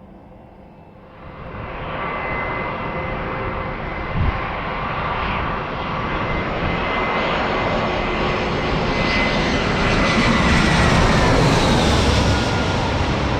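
Jet airliner engines swelling as the plane passes close by, growing louder to a peak near the end. A high whine drops in pitch as it goes by, and there is a brief low thump about four seconds in.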